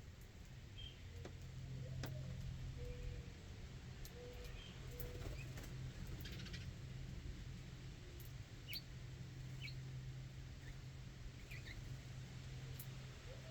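Backyard birds giving scattered short chirps and a few short low calls, with light clicks from feeding on the ground, over a steady low hum.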